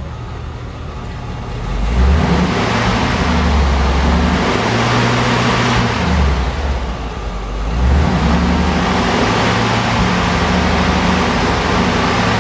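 Straight-piped car exhaust (muffler delete) as the engine is given light throttle, revving up about two seconds in, easing off briefly around the middle, then held up again. The revs are held steady each time. The throttle is being applied to check the newly fitted J-pipe joints for exhaust leaks.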